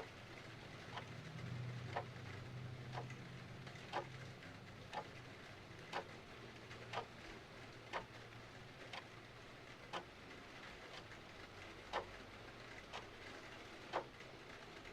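Clock ticking once a second, every other tick louder, over a soft steady hiss of rain.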